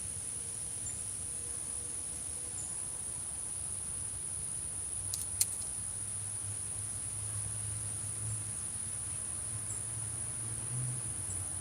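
Crickets singing in one steady high-pitched drone, with a single sharp click about five seconds in.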